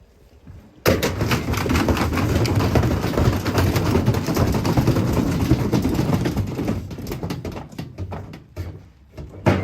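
Washing machine drum spinning with a brick inside, making a rapid, heavy banging and rattling that starts suddenly about a second in. It then thins out into a few last knocks as the machine gives out and stops.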